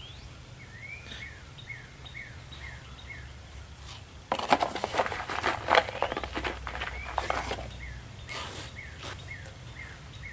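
A bird repeating a short falling chirp about three times a second. In the middle, about three seconds of clicking and rustling handling noise come close to the microphone.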